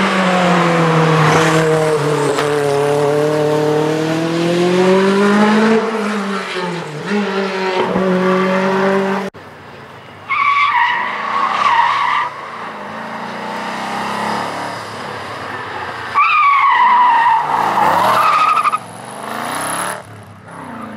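Group B rally car engine at high revs, its pitch sagging and climbing again as it changes gear. About nine seconds in it cuts abruptly to another car screaming past in two shorter high-revving passes.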